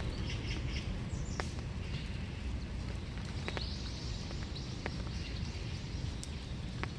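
Winter rain falling steadily, with scattered drops ticking close by, under a low rumble. Small birds chirp in short runs near the start and again from about halfway through.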